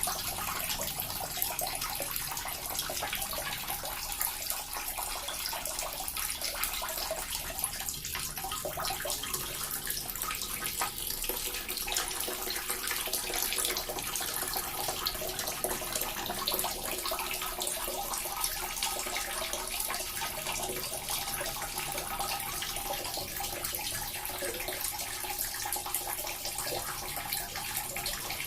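Small water fountain running steadily, a constant splashing and trickling of falling water.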